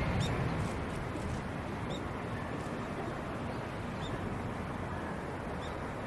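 A passing jet's noise fading away over the first second into a steady low rumble, with four short high chirps spaced about one and a half to two seconds apart.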